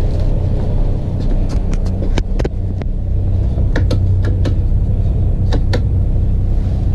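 Steady low rumble of a semi truck idling, heard inside the sleeper cab, with a dozen or so sharp clicks scattered through it.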